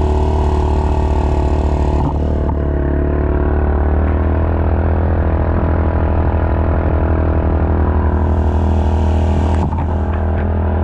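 An engine running steadily with a low, pulsing hum; the sound changes abruptly a few times, as if cut between clips.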